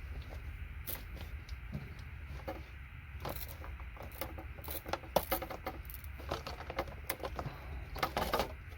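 Circuit board being cut and pried apart with hand cutters: irregular sharp snaps and clicks, with a steady low hum underneath.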